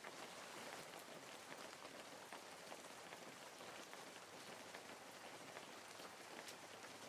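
Steady, soft rainfall with many small drops pattering on leaves and surfaces.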